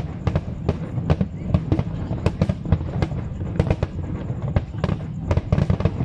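Aerial firework shells bursting in a rapid, irregular series of bangs, several a second, over a steady low rumble.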